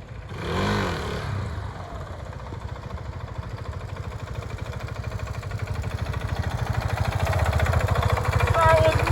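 Motorcycle engine running with a steady, even pulse, getting gradually louder, after a short rev that rises and falls about half a second in.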